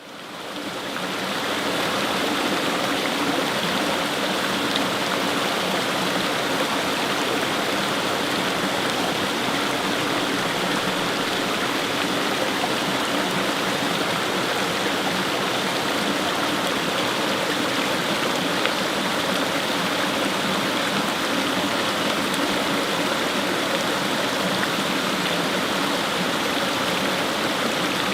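Fast-flowing brook, water rushing and splashing over stones in a steady, continuous rush; fades in over the first two seconds.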